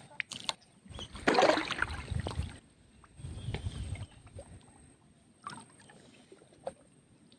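Shallow muddy river water splashing and sloshing, with a loud splashy stretch about a second in and a duller slosh a little later, then light dripping and trickling.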